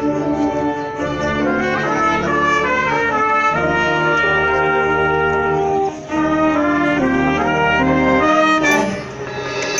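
Symphonic wind band playing, with trumpets and trombones carrying sustained chords over a steady low bass; the music dips briefly midway and eases off near the end.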